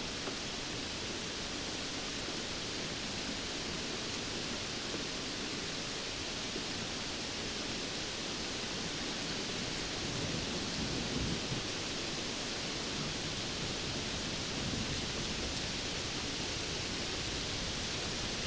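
Steady, even rain hiss with no single drops standing out, swelling slightly in the low end about ten seconds in.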